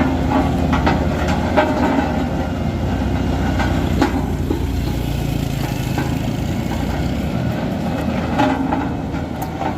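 Vibratory road roller running while it compacts the road fill: a steady low engine rumble with a fast rattling texture from the vibrating drum, and a few sharp knocks.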